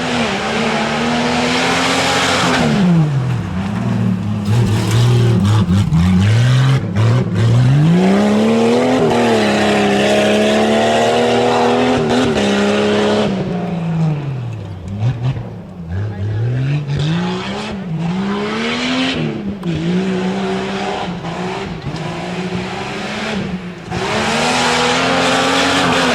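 A four-wheel-drive tuff truck's engine revving hard and letting off over and over as it runs a rough dirt course. Its pitch climbs, holds high for a few seconds in the middle, then drops and surges again in several quick swings.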